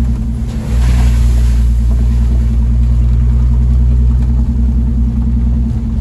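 Vehicle engine running at a steady low drone, heard from inside the cab while driving on a wet dirt road. The even drone turns rough and uneven near the end.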